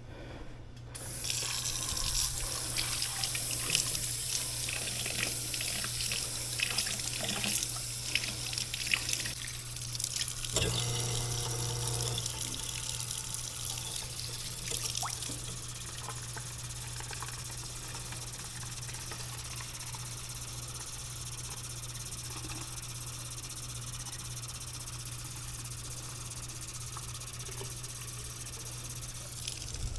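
Hot water being poured down an air conditioner's condensate drain line to flush out a clog, starting about a second in with splashing, then running more steadily after about twelve seconds.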